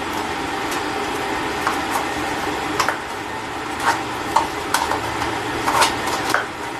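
Irregular light metallic clicks and taps of a swivel-head socket wrench working at the fuel-bowl screws of a Holley carburetor, about ten over several seconds, over a steady background hiss.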